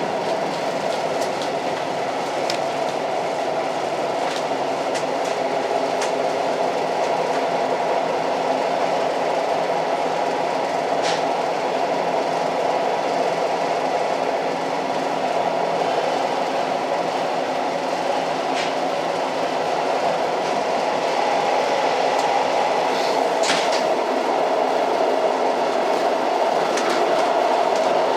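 Old train running steadily, a continuous rumbling noise with a few sharp clicks now and then.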